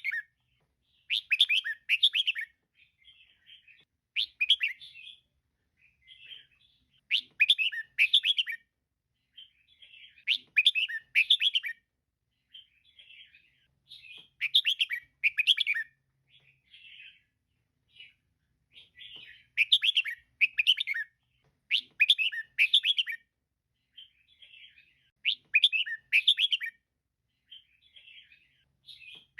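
Female red-whiskered bulbul calling: short bursts of rapid, loud chirping notes about every three seconds, with fainter chattering notes between the bursts.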